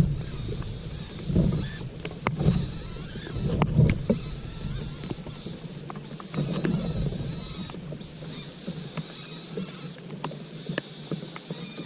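Cuckoo chick begging: a high, thin call held for one to two seconds at a time and repeated with brief breaks, over low knocks and rustling.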